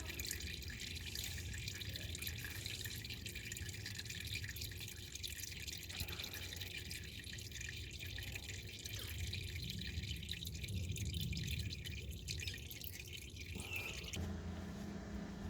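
Old engine oil draining out of the BMW N13 1.6 engine's sump drain hole and trickling and dripping into a catch pan. The trickle stops near the end.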